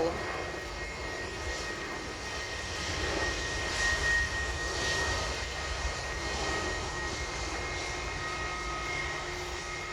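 Boeing 717 jet airliner's two Rolls-Royce BR715 turbofans at take-off power as it climbs away just after rotation: steady jet engine noise with a low rumble and a thin, steady high tone, swelling slightly midway.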